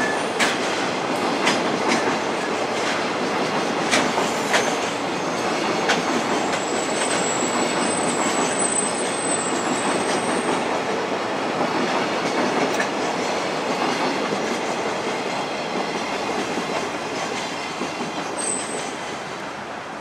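Freight train wagons rolling past on a steel bridge, wheels clacking over rail joints with a steady rumble. A thin high wheel squeal sounds for a few seconds in the middle and briefly again near the end, and the rumble fades as the last wagon goes by.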